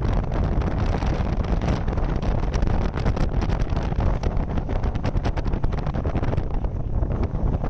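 Snowmobile running at speed, its engine and track noise heavily mixed with wind buffeting on the microphone, with many rapid crackles.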